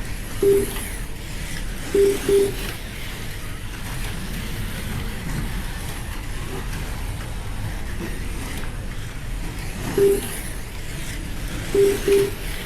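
Slot cars racing on the track, their small electric motors and guide shoes giving a steady whirring hum. Short mid-pitched beeps from the lap-timing system cut through it: one about half a second in, a quick pair at two seconds, one at ten seconds, and another pair near the end.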